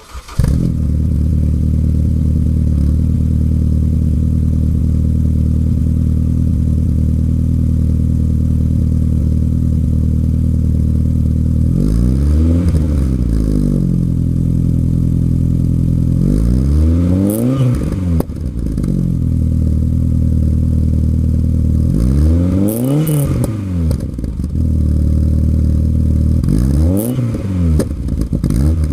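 BMW E30 M3's S14 four-cylinder engine idling through a Supersprint race muffler and Ansa resonated mid pipe. It is revved four times, each rev rising and falling back quickly to idle.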